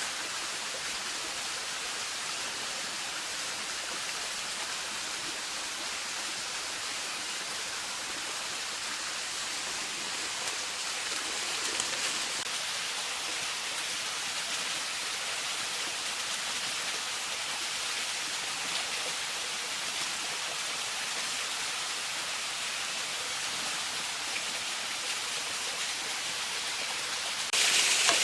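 Steady rushing water, an even hiss with no pauses, that turns suddenly louder and brighter near the end.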